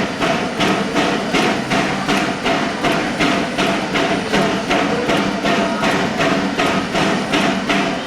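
Baldwin 0-6-0 steam locomotive standing on a turntable, giving off a steady, even rhythm of sharp knocks, about two and a half a second, over a steady hum.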